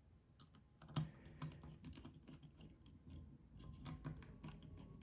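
Faint, irregular light clicks and taps of a small screwdriver with a T6 bit and a folding knife being handled, with a sharper click about a second in.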